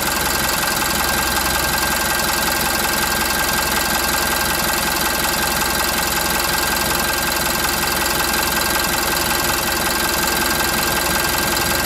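Mitsubishi Fuso Canter's 2,990 cc turbo-intercooled diesel engine idling steadily, heard from the engine's left side.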